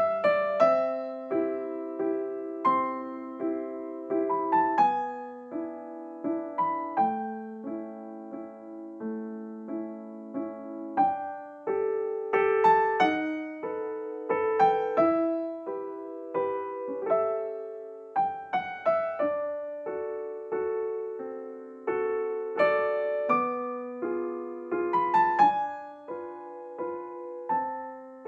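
Background music: a slow, gentle piano melody of single struck notes, each ringing and fading before the next.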